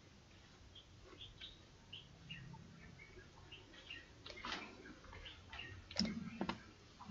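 Faint bird sounds: short high chirps scattered throughout, and a low cooing that starts about six seconds in.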